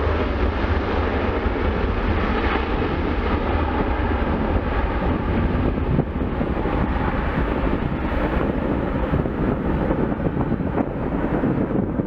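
Steady rumble and hiss of an Airbus A330-300's twin jet engines, with wind buffeting the microphone. The higher hiss fades somewhat toward the end as the aircraft draws away.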